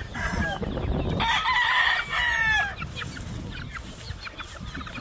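Gamefowl chickens clucking and calling, with one loud crow about a second in that lasts a second and a half and falls in pitch at the end. Quieter scattered clucks follow.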